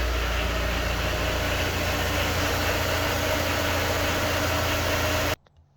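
Honda S2000's four-cylinder engine idling steadily after a new MAP sensor has been fitted, running without cutting out. The sound stops abruptly a little after five seconds in.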